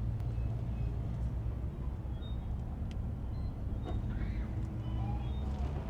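An engine idling steadily with a constant low hum, along with a few faint ticks and short high chirps.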